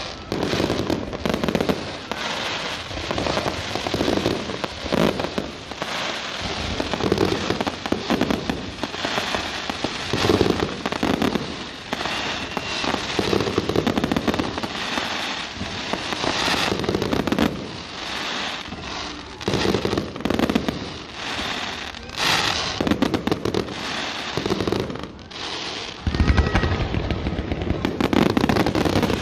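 Fireworks display going off without pause: a dense stream of crackling bursts and bangs. It grows heavier and deeper in the last few seconds.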